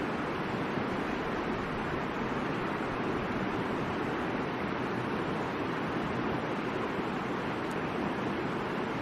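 Middle Fork of the Boise River rushing steadily, an even, unbroken rush of flowing water.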